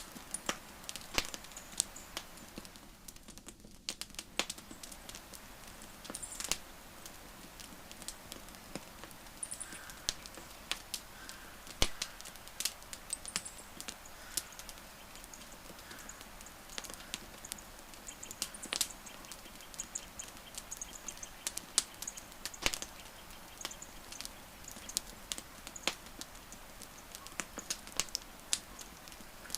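Wood campfire crackling, with sharp irregular pops and snaps over a steady low hiss of burning.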